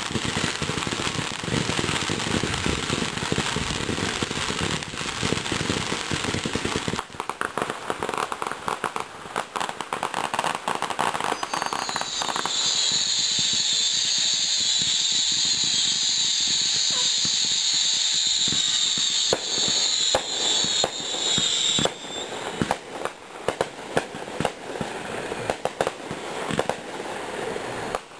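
Fireworks going off: dense crackling and popping, then a steady high-pitched hissing whine for about ten seconds in the middle, then scattered sharp pops near the end.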